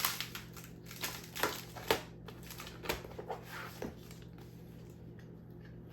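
Coins and paper money being handled: a run of small clicks and rustles over the first four seconds, then it goes quieter.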